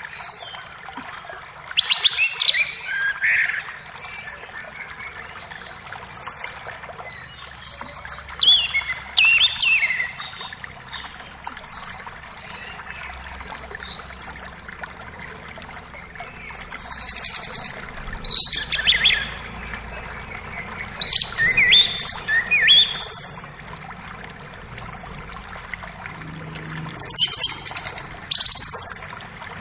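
Forest birds singing and chirping over the steady rush of a creek. One bird repeats a short, high note about every two seconds, while others add louder bursts of chirps and trills.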